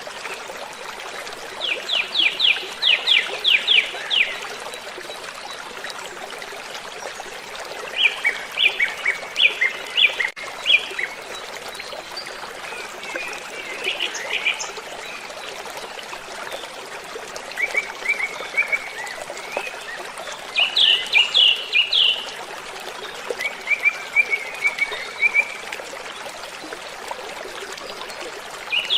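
Steady rush of a waterfall under a songbird singing short phrases of quick, high repeated notes, about six phrases, each a second or two long.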